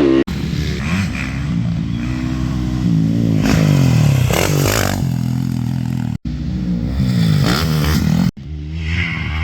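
Yamaha YZ250F's 250cc single-cylinder four-stroke engine, breathing through an FMF 4.1 titanium exhaust, revving up and easing off over and over as the dirt bike is ridden around the track. The sound drops out for an instant twice, about six and eight seconds in.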